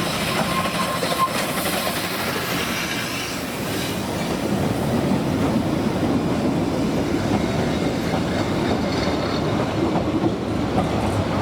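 Narrow-gauge train double-headed by two quarry Hunslet steam locomotives, running past with the wheels clattering over the rail joints and some wheel squeal. The sound is steady and cuts off suddenly at the end.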